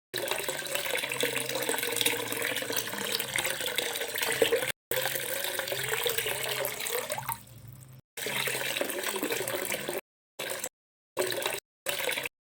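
Water pouring and splashing from a mini water pump, with a faint low steady hum under it. The sound is cut into several short stretches by sudden silences, and it fades briefly a little before halfway.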